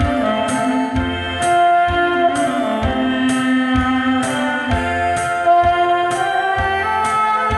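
Saxophone playing a slow melody of long held notes over a backing track with keyboard or organ accompaniment and a steady beat, about one beat a second.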